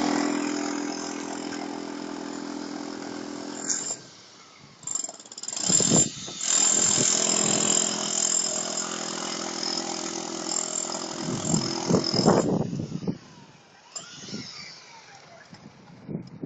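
A motor running with a steady pitched hum. It drops away about four seconds in, comes back about a second later, and fades out after about twelve seconds.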